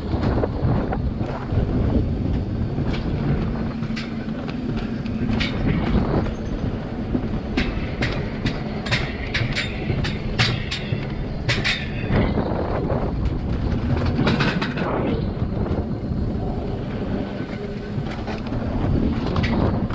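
Alpine coaster sled running down its rail track: a steady rumbling hum from the wheels, with many sharp clacks and rattles as it passes over the track.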